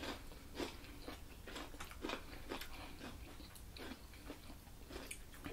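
Close-miked chewing, with soft crisp crunches of raw cucumber about twice a second.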